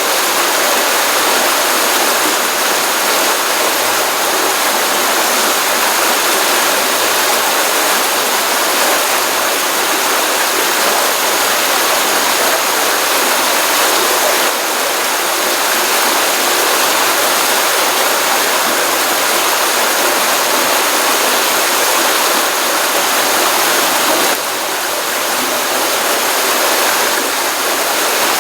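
Pond stream water running steadily, a continuous rushing of flowing water after a rainstorm.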